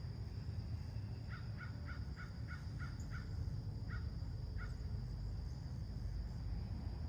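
A crow cawing: a quick run of about seven short caws, then two more spaced out, over a steady low rumble.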